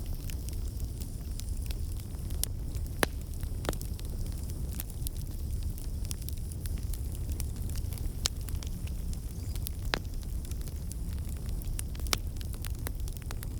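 Wood fire crackling in a fireplace: a steady low rumble under irregular sharp pops and snaps, with a few louder cracks spread through.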